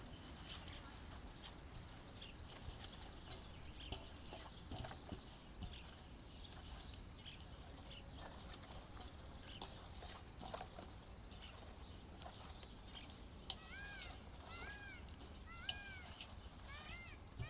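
Faint scattered small clicks and taps, and in the last few seconds an animal giving a series of short, arched high-pitched calls, about five in quick succession.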